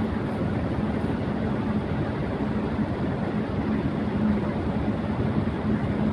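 Electric fan running at high speed: a steady rush of air with a low hum underneath.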